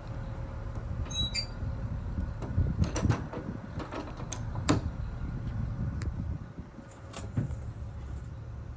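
Steady low vehicle rumble with scattered sharp clicks and knocks, and a short squeak about a second in.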